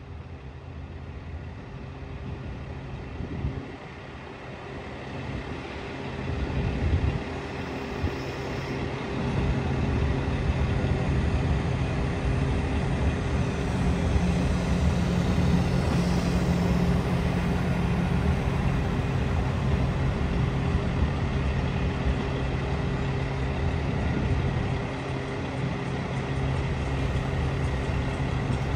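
Diesel locomotive of a passenger train running with a steady low engine hum and rail noise, growing louder over the first ten seconds as it draws near, then holding steady.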